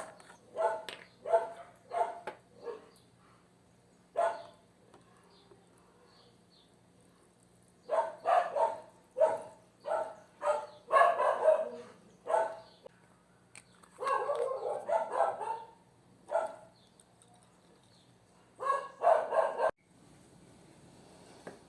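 Dog barking in repeated bursts of short barks with pauses between, stopping abruptly near the end.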